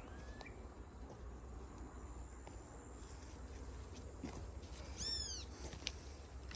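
Animal calls: a short rising call just after the start, and a louder, arched call with several stacked tones about five seconds in, over a steady low background rumble.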